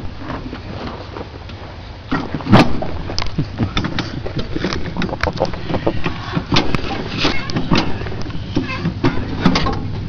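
Repeated clunks and knocks of a VW engine and its mounting hardware being shifted into place, the loudest about two and a half seconds in, over a steady low hum.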